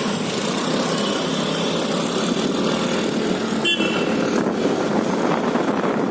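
Road traffic going by: a steady mix of engines and tyre noise, with a brief high beep about three and a half seconds in.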